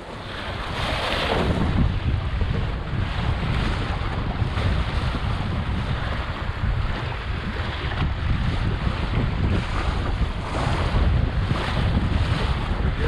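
Strong wind buffeting the microphone, with water splashing and rushing past a small sailboat under sail in a stiff breeze.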